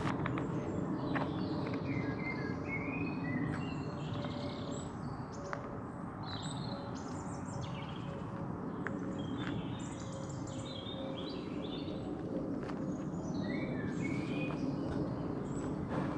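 Wild birds singing and chirping, many short warbling calls overlapping, over a steady low background rumble.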